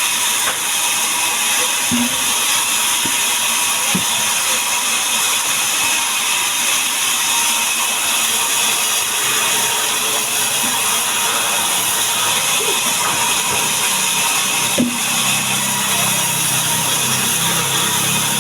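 Woodworking sawing machinery running steadily, with a few sharp knocks and a lower hum joining near the end.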